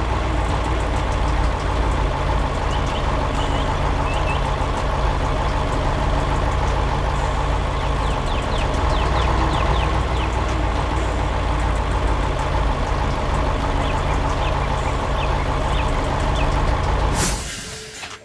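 Heavy construction-truck engine running steadily with a deep rumble, fading out near the end.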